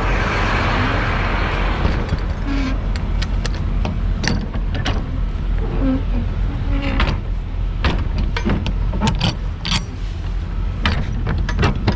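Semi truck heard from inside the cab: a steady low engine hum, a rush of hiss in the first two seconds, and many sharp clicks and rattles throughout.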